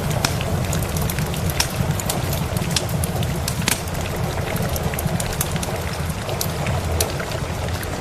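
Steady rain mixed with a crackling wood fire, with a low rumble underneath. Sharp pops and ticks come in irregularly.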